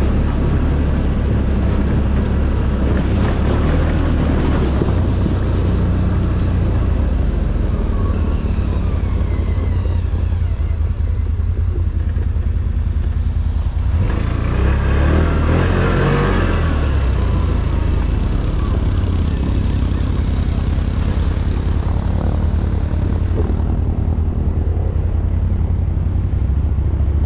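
ATV engine running under way, its low note rising and falling with the throttle, with a louder rush of noise about halfway through.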